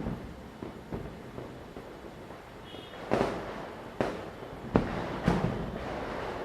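Diwali firecrackers going off in a string of separate sharp bangs, each with an echoing tail. The loudest bangs come about three seconds in and again about five seconds in, with smaller ones between, over a steady background of more distant crackling.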